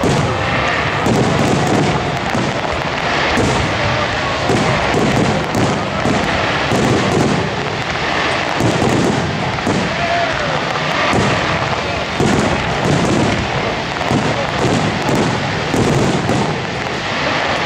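Aerial fireworks shells bursting in quick succession, many bangs following close on one another with no break.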